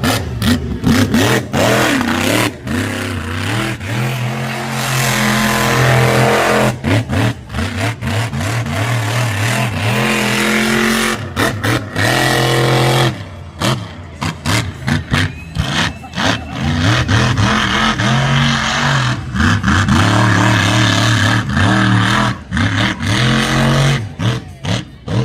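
Monster truck supercharged V8 engines revving hard, pitch rising and falling as the trucks run, loud throughout with many brief dips.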